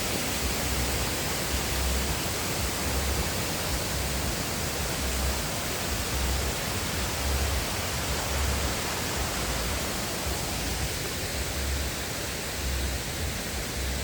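Steady rushing noise of falling water from a waterfall, unchanging in level.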